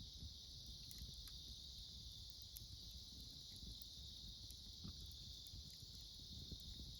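A steady chorus of autumn insects chirping, high-pitched and unbroken, with a few faint crackles from a wood campfire and a low rumble beneath.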